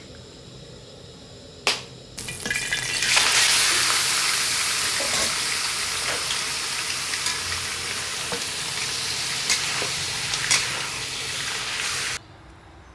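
Food sizzling in hot oil in a pan: after a single knock, the loud frying sizzle starts a couple of seconds in and slowly eases, with a few sharp clicks, then cuts off suddenly near the end.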